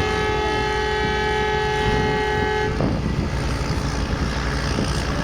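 A horn holding one steady note cuts off sharply about three seconds in, over a continuous low engine rumble that runs on afterwards.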